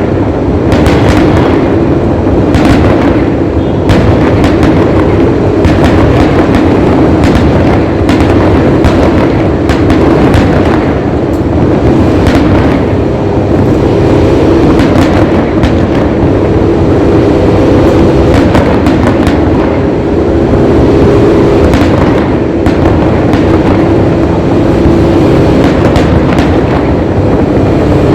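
Fireworks display: a dense, continuous barrage of bursts and bangs over a constant rumble.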